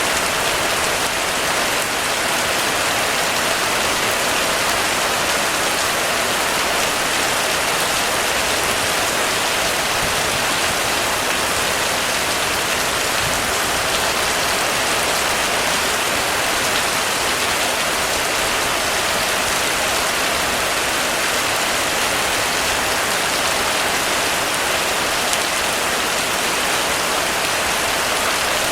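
Heavy rain falling steadily on a roof, a dense, unbroken patter.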